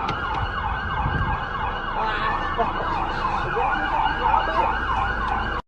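Emergency vehicle siren on a fast rising-and-falling yelp, about three sweeps a second, over the low rumble of traffic. It cuts off suddenly near the end.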